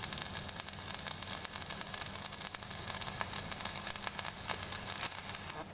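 Stick (shielded metal arc) welding arc crackling and sizzling steadily, with a low steady hum underneath. The arc cuts off suddenly near the end.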